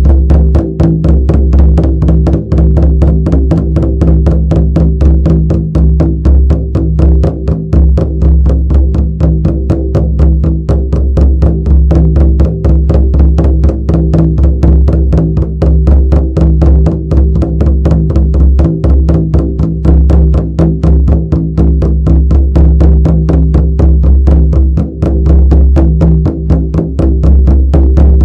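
Shamanic frame drum beaten in a fast, steady, even rhythm, with a low sustained ring underneath the beats.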